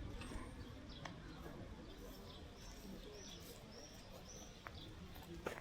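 Small birds chirping faintly, a run of short high chirps in the middle, over a low steady outdoor background with a few faint taps.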